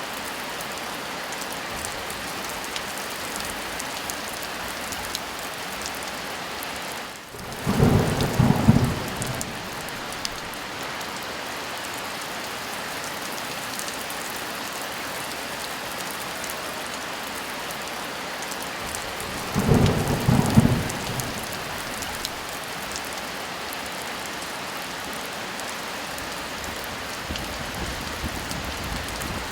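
Steady heavy rain with two rolls of thunder: the first about eight seconds in, the second about twenty seconds in, each rumbling for a second or two.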